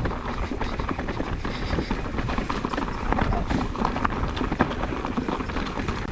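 Specialized Stumpjumper Evo mountain bike rolling fast down a steep rocky trail: a steady irregular rattling and clattering of tyres, chain and frame over rocks, over a low rumble of wind on the microphone.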